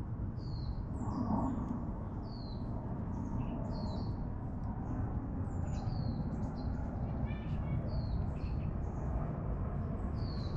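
Small birds chirping over and over in short, high, falling notes, roughly one or two a second, over a steady low background rumble.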